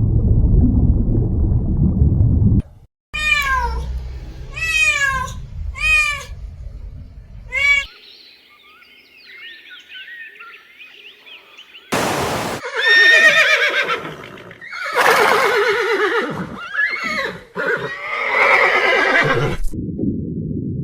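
A horse whinnying again and again through the second half, loud, shaky calls. Before that come four short calls that fall in pitch, then faint chirping.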